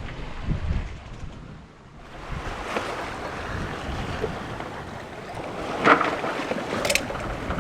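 Wind buffeting the microphone and water washing past a sailboat under way on the open ocean. There is a brief sharp sound about six seconds in.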